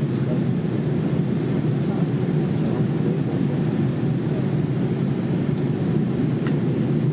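Steady low roar inside the cabin of a Boeing 787-8 airliner: engine and airflow noise with no change in level.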